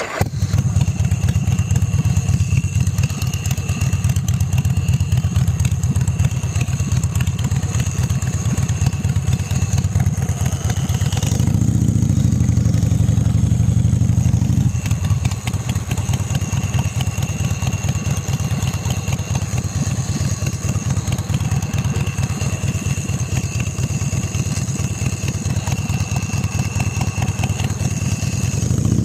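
Motorcycle engine running on the move, its note rising and getting fuller for a few seconds about twelve seconds in.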